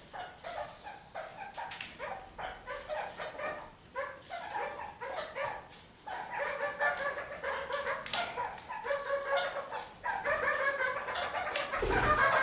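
Red-crowned kakariki chattering: rapid runs of short, repeated calls, growing louder and fuller about halfway through.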